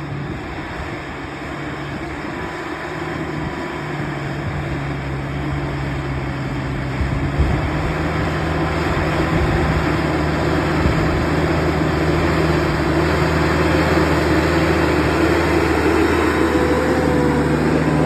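Case IH CX80C tractor's diesel engine running steadily as it pulls a tiller through the field, growing louder as it draws closer.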